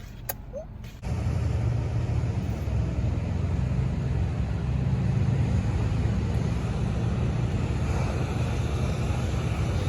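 Steady low rumble and rushing noise of a moving car, such as road and wind noise, starting abruptly about a second in.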